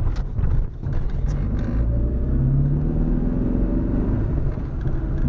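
Ford Sierra's 2.0 DOHC four-cylinder engine heard from inside the cabin while driving, over road and tyre rumble. After a brief dip in level under a second in, the engine note climbs steadily from about two seconds in as the car picks up speed.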